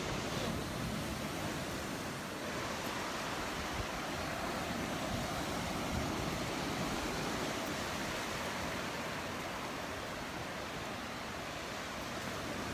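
Steady, even wash of small surf breaking and running up a sandy beach.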